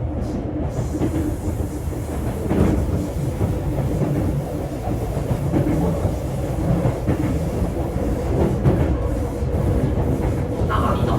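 Sotetsu 8000 series electric train running between stations, heard from inside motor car MoHa 8231: a steady rumble of wheels on rail, with occasional clicks as the wheels pass over rail joints.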